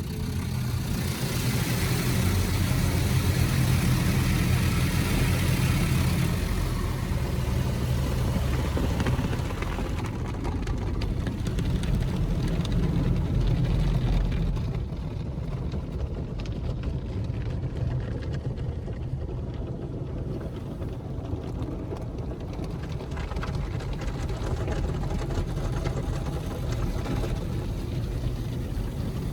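Automatic car wash heard from inside the car: a steady low rumble under a hiss of the wash working over the car. The hiss is strongest for the first several seconds, then eases.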